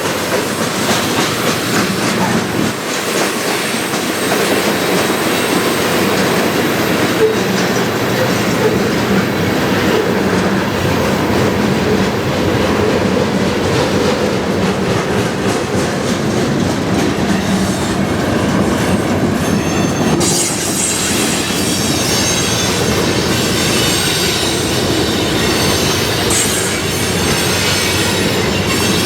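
Loaded ballast train cars rolling past, with a steady heavy rumble and wheel clatter over the rails. From about two-thirds of the way through, a high-pitched steel wheel squeal rises over the rumble.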